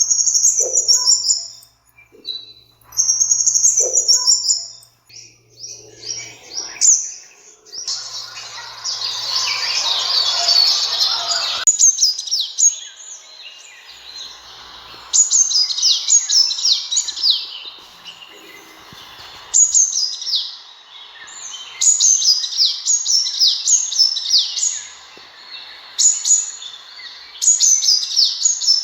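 Sunbird calling: high, thin chirps in short phrases of quick, falling notes, repeated about every two seconds in the second half. A harsher, noisy chatter runs for about four seconds around the middle.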